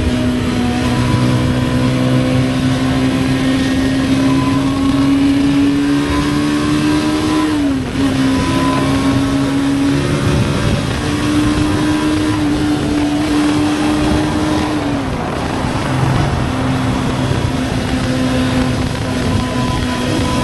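Voge 250RR motorcycle engine pulling hard at speed, its note climbing slowly, with two quick drops in pitch about 8 and 15 seconds in as it shifts up. Steady wind rush over the engine.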